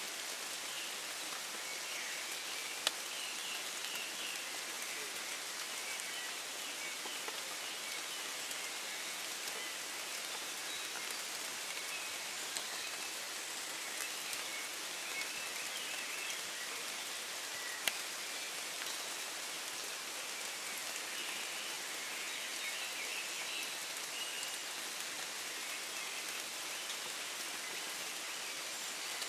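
Steady gentle rain falling in woods, an even patter with a few louder single drop hits, the clearest about three seconds in and just past halfway.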